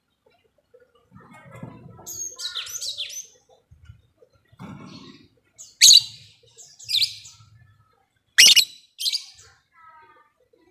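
Lovebirds chattering and calling as a lure track meant to set other lovebirds singing: a run of shrill chatter about two seconds in, then sharp, loud shrieks around six and again around eight and a half seconds.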